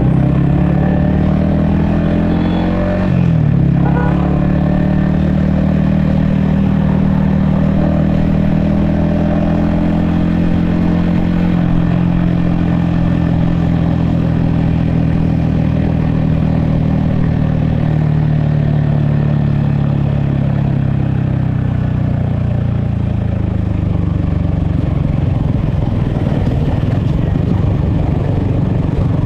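Yamaha XSR155's single-cylinder 155 cc engine and exhaust running under way, heard from a helmet-mounted camera. The engine pitch dips sharply about three seconds in, holds steady through the middle, then falls away after about twenty seconds as the bike slows.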